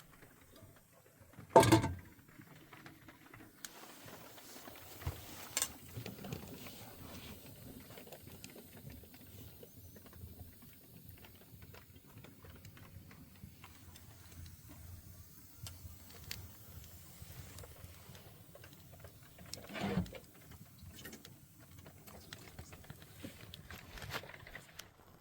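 Irregular light tapping and rustling, with two louder knocks, one about two seconds in and one near the end.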